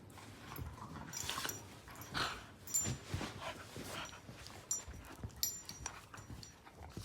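Two dogs play-fighting: an irregular string of short, soft dog sounds and scuffles.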